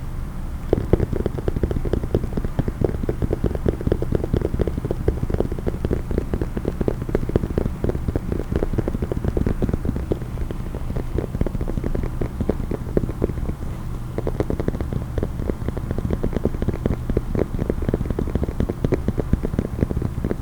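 Fast, continuous tapping on a case, many light taps a second without a break.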